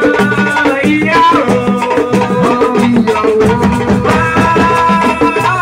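Assiko band music: a steady, driving percussion beat with shakers under long held melody notes.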